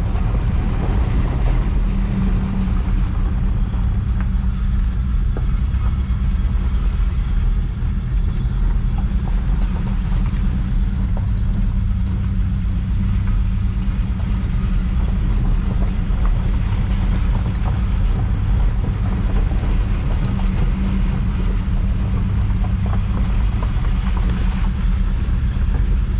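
Ford Ranger pickup's engine running steadily as a low rumble, heard from inside the cab while the truck backs slowly along a flooded dirt track.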